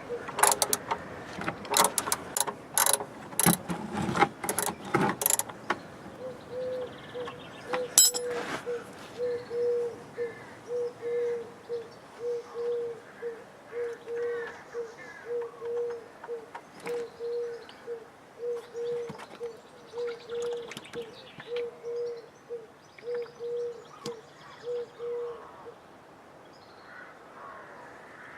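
Sharp metallic clicks and knocks of a hex key and bar working the car's tapered oil drain plug loose. From about six seconds on, a short hooting note of one steady pitch repeats about one and a half times a second and stops near the end.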